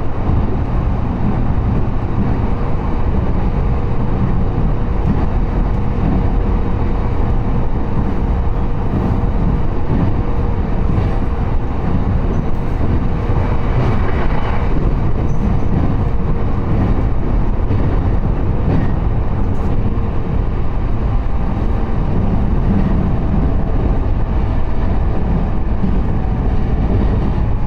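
Passenger train running along the track, heard from inside the car: a steady low rumble of wheels and running gear on the rails, with a faint hum that fades out a little past halfway.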